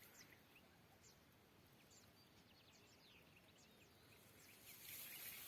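Faint, distant birdsong: scattered short, high chirps over a very quiet rural background. A soft hiss rises near the end.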